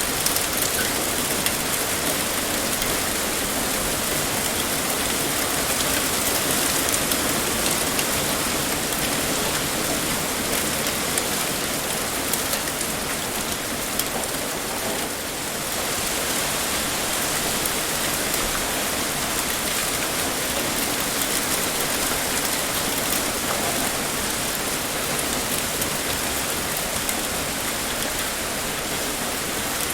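Heavy rain pouring steadily, with a dense even hiss and scattered drop ticks on a surface; it eases slightly for a moment about halfway through.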